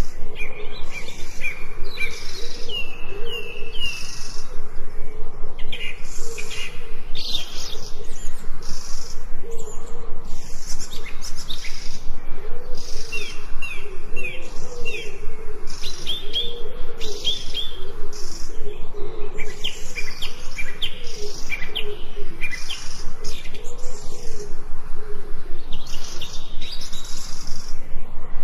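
Several forest birds singing, repeating series of short downward-sliding whistled notes. Behind them runs a steady high pulsing at roughly one to two pulses a second, with a low wavering call underneath.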